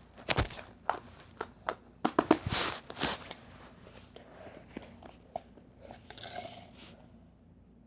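Irregular crisp crunches and sharp clicks of something being bitten and chewed, thickest in the first three seconds and then fainter and sparser.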